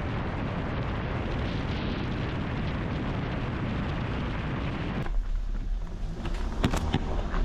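Steady rushing wind noise buffeting the microphone. It cuts off abruptly about five seconds in, leaving a lower rumble and a few sharp clicks.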